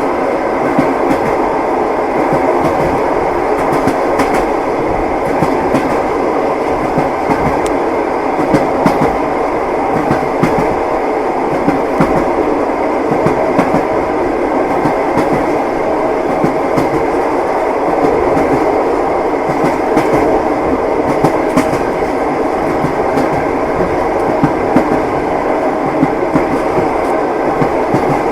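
Steady running noise of a train carriage heard from inside, with the repeated clickety-clack of its wheels over rail joints.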